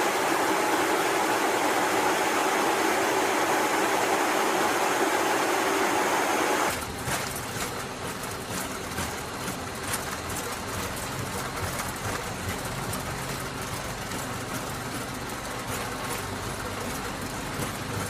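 KC-10 tanker's turbofan jet engines running on the ground: a loud steady rush with a steady whine for the first six or seven seconds, then an abrupt change to a quieter low rumble with light rattles and knocks.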